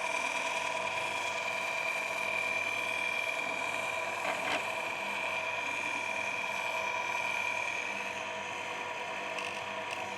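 Electric chainsaw sharpener's motor and grinding wheel running steadily with a constant whine while the wheel is touched against a chain tooth. A short click about four and a half seconds in.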